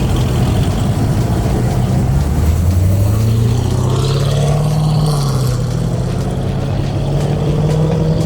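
Car engine running, its note climbing from about two seconds in and then holding at a higher pitch.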